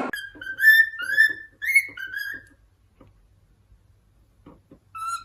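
Pet parrot giving a quick run of about five short whistled calls, each bending upward in pitch. After a pause of about two seconds it starts calling again near the end.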